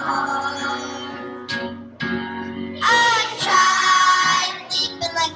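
Music: a song sung in a child's voice with long held notes over instrumental accompaniment.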